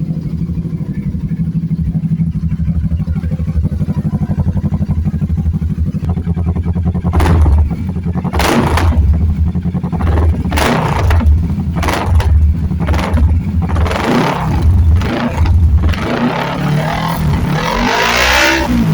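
Kawasaki Z650 motorcycle engine idling steadily, then revved in a string of short throttle blips from about seven seconds in. Near the end it revs up in a longer rising run.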